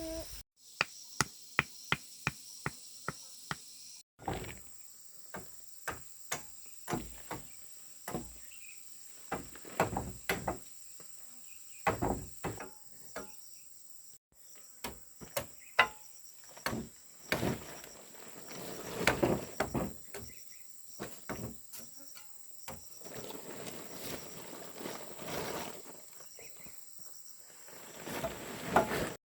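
Repeated sharp knocks of tools striking bamboo and wood during house building: an even run of about three strikes a second at first, then irregular knocks and thuds. Insects shrill steadily high in the background.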